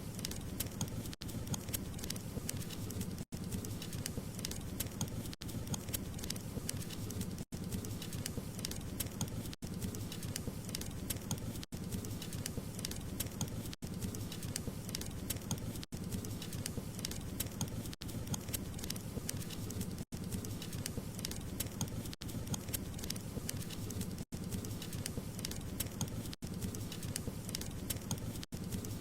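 Wood fire crackling and hissing steadily, with many sharp pops and snaps over a low rushing bed. A very short dropout cuts the sound about every two seconds.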